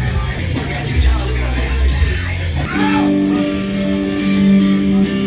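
Loud live rock music with heavy bass. A little under three seconds in, it changes to held, steady chords.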